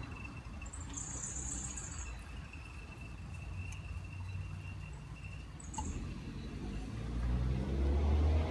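Low steady engine rumble that grows louder over the last second or so, with a thin, steady high-pitched trill that stops a little before the end.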